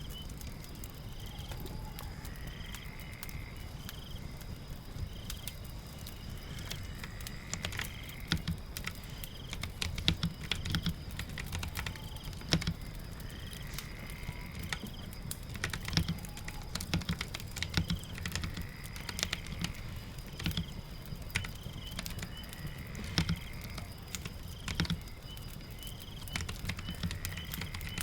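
Keyboard typing in irregular bursts of keystrokes, starting about a third of the way in, over a steady bed of rain and crackling fire. A short chirping call repeats every few seconds in the background.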